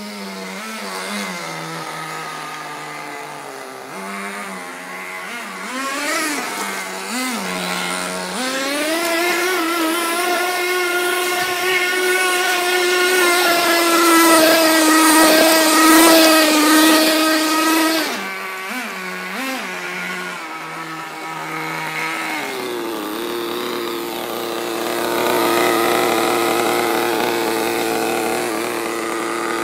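Small nitro glow engine of an RC monster truck idling and blipping the throttle. About a third of the way in it revs up and holds a high, steady whine for some ten seconds. It then falls back near idle with a couple of short blips, and picks up again to run steadily at mid revs with a hiss behind it near the end.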